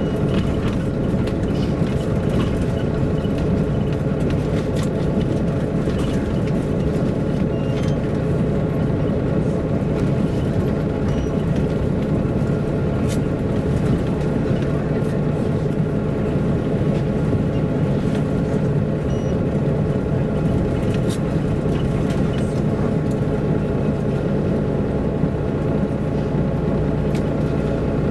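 A MAN A23 NG313 articulated city bus's diesel engine running steadily, heard from inside the passenger cabin, with a low rumble and occasional faint cabin rattles.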